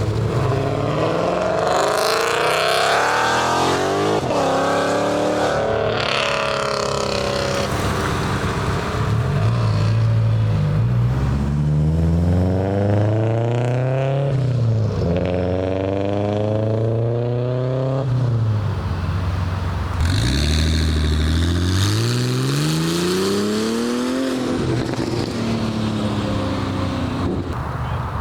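Car engines accelerating hard and revving, the pitch climbing in several long sweeps and dropping back at each gear change.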